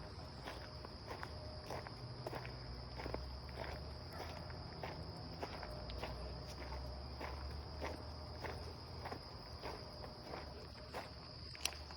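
Footsteps walking steadily along a woodland trail, a little under two steps a second, over a steady high-pitched insect chorus. There is a single sharp click near the end.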